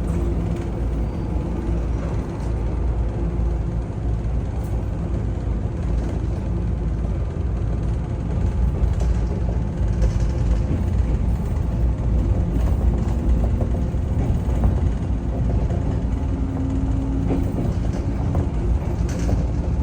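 Interior running noise of a JR West 103 series 3500 subseries electric train, heard inside motor car KuMoHa 103-3509: a steady low rumble of motors and wheels on the rails, growing a little louder about eight seconds in.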